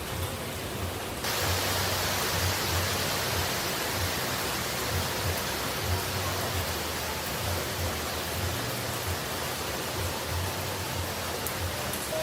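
Steady rushing noise of falling water from a waterfall. It turns louder and brighter about a second in.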